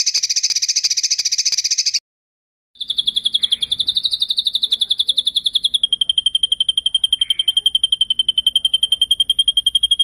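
Recorded songbird song of the 'masteran' kind. A short, dense buzzy trill lasts about two seconds and stops. After a brief gap comes a long, rapid rolling trill of evenly spaced high notes at a steady pitch, which settles slightly lower about six seconds in.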